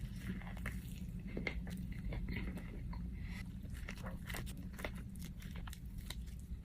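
Person biting into and chewing a crispy fried chicken sandwich, with repeated crunches and crackles of the breading.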